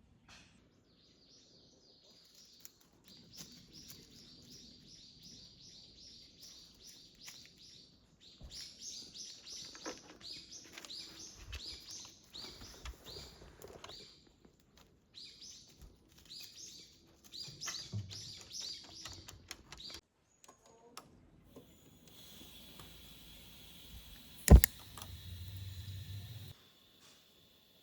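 A bird calling in quick runs of repeated high chirps, about three a second, broken by short pauses. Near the end comes one sharp, loud knock.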